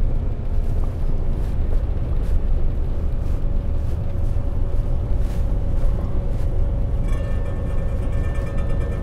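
Day-cab semi truck driving, a steady low engine and road drone. Background music comes in about seven seconds in.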